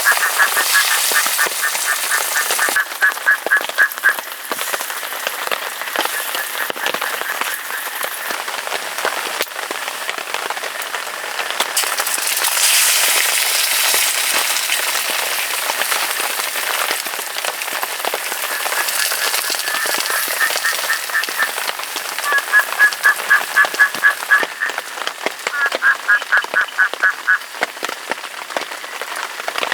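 Steady rain falling, with a frog calling over it in bouts of fast, evenly repeated notes, several a second. The bouts come at the start, about a third of the way in, and several times in the last third.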